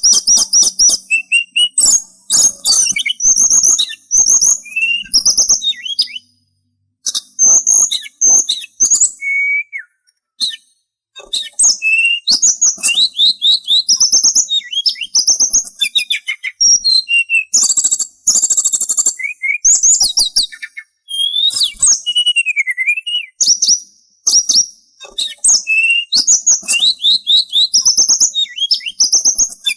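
Sulingan songbird singing a rapid, varied song of high chirps, trills and short whistles, with a couple of brief pauses.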